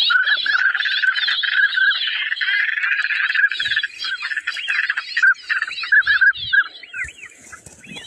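A large flock of birds calling together: a dense, loud chorus of short repeated whistled notes with many overlapping chirps. The calling thins out near the end.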